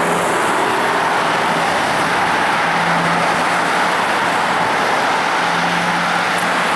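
Loud, steady car and road noise with no clear rev or gear change.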